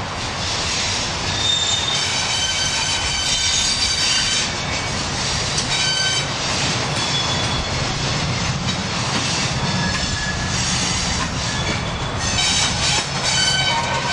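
Railroad car wheels squealing against the rails, several high squeals starting and stopping over a continuous low rumble of the moving train.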